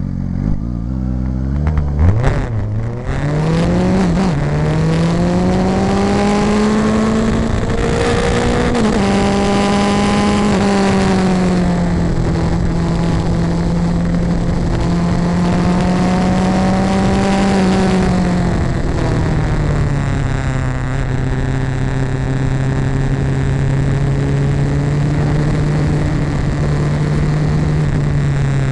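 Vehicle engine idling, then pulling away a couple of seconds in and rising in pitch as it accelerates. It shifts up through the gears twice, then runs steadily at cruising speed.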